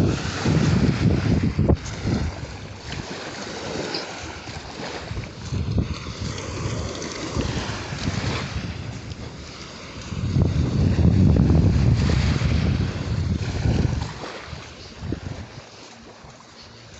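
Wind buffeting the microphone in gusts, with the heaviest rumble about ten to fourteen seconds in, over the wash of the shore.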